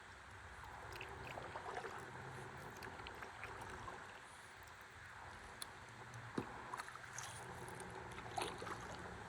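Soft river water lapping and trickling around a stand-up paddleboard, with many small splashes and drips and a couple of sharper ticks in the second half.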